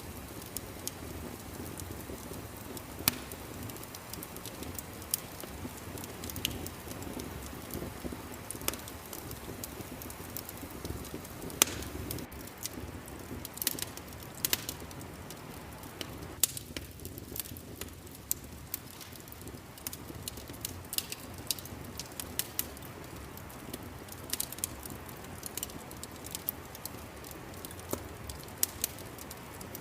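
Wood fire crackling in a fireplace: irregular sharp snaps and pops over a low steady rumble, with one louder pop about halfway through.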